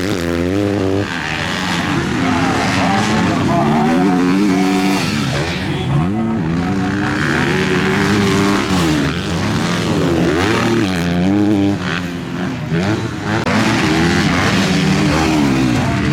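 MX2-class motocross bike engines revving hard, their pitch rising and falling again and again as the throttle opens and shuts, with more than one bike heard at once.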